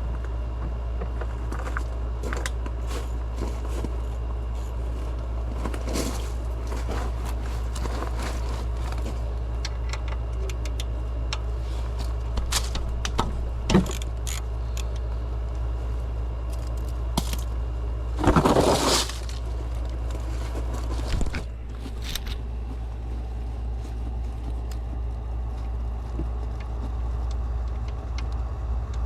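Car driving, a steady low rumble of engine and road noise with scattered small clicks and rattles. A sharp knock comes about halfway through, and a louder rushing noise a few seconds later.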